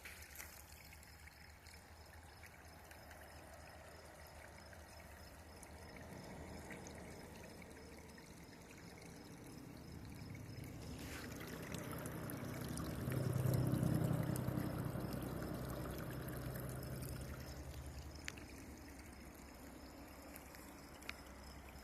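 Water trickling and pouring down a homemade backyard stream bed as the first test flow makes its way down the channel. It is soft and steady, growing louder a little past the middle before easing off again.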